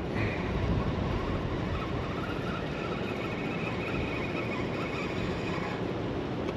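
Spinning reel being cranked to bring in a hooked channel catfish: a faint whir that stops near the end, over a steady rush of water and wind.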